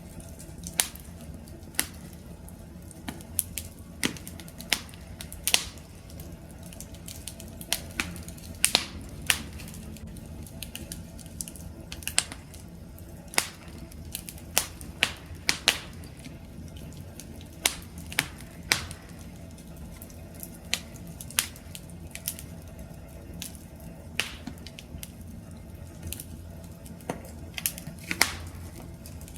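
Wood fire crackling and popping: irregular sharp snaps, some in quick clusters, over a low steady rumble of flames.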